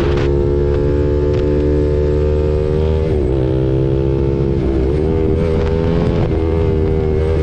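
KTM RC 390's single-cylinder engine running through an SC Project aftermarket exhaust while riding, holding steady revs with a couple of brief small wavers in pitch about three and four and a half seconds in. Wind buffets the microphone underneath.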